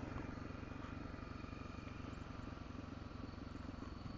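Car engine running with tyre and road noise, heard from inside the car as it drives along: a steady low hum with no change in pace.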